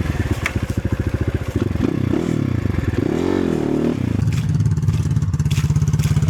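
Enduro motorcycle engine revving up and down in the middle, then running steadily, with scraping and a few sharp knocks as the bike is stuck on a log.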